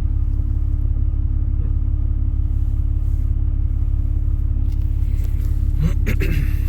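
Diesel truck engine running with a steady low drone and a constant hum, and a few brief clicks about six seconds in.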